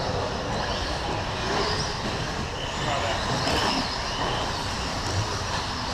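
Several electric 1/10-scale short course RC trucks with 17.5-turn brushless motors running practice laps, making a steady mix of motor whine and tyre noise, with faint whines rising and falling as they speed up and slow down.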